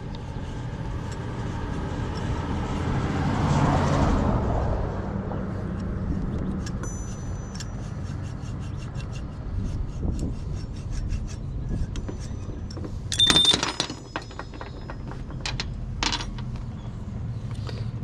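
A wire fitting brush twisted inside the copper port of a shower valve, scraping the metal clean before soldering. The scraping swells about four seconds in. Clicks follow, and a loud metallic clink a little after the middle.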